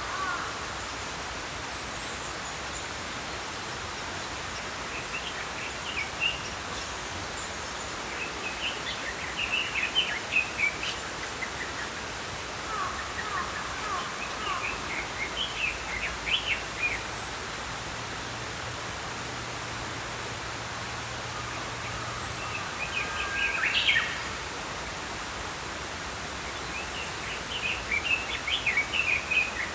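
Small songbirds chirping in scattered short twittering phrases over the steady rush of a small stream.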